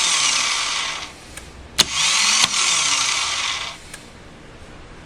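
2007 Harley-Davidson Night Train electric starter spinning freely with a high whir in two bursts, each opened by a click, its pitch rising and then falling away; the engine is not turned over. The starter clutch has failed, so the starter spins without cranking the motor.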